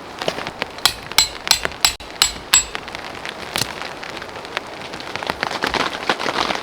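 Heavy rain falling on a surface, with many small drop hits. About a second in, a run of about six loud, sharp taps sounds in quick succession.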